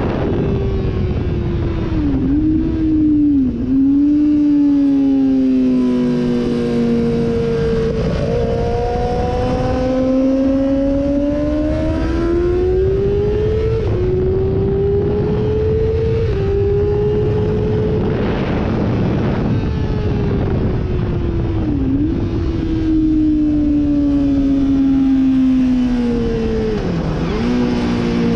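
Sportbike engine at speed on a racetrack, heard from on board: the pitch climbs under throttle and steps down sharply on upshifts, then sinks under braking with quick blips on the downshifts.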